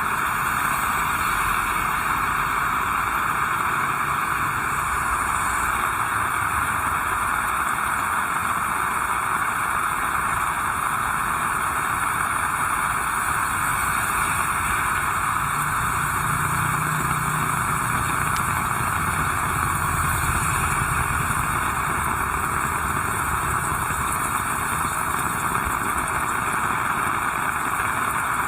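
Heavy rain falling steadily as an even hiss. A low engine rumble rises and fades in the middle, like a vehicle passing.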